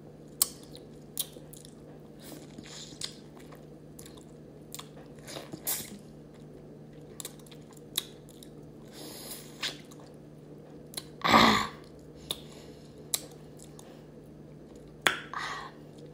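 Close-up eating sounds of raw lemon: scattered wet bites and chewing clicks. One louder, longer mouth sound comes about eleven seconds in.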